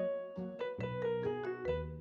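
Background music: a piano-like keyboard playing a light melody over bass notes, several notes a second.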